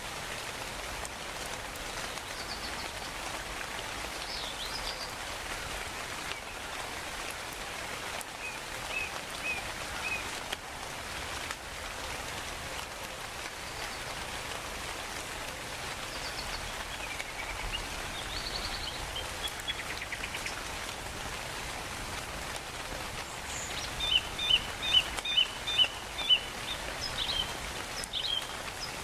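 Steady rainfall with scattered bird calls: short chirps and whistles come and go, and near the end a bird gives a run of about six loud, quick repeated notes.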